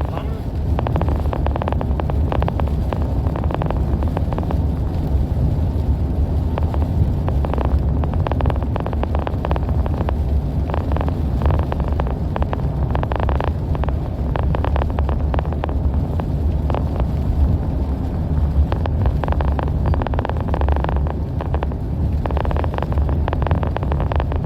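Car interior driving noise on a slushy, snow-covered road: a steady low rumble of tyres and engine, with many small irregular ticks and spatters over it.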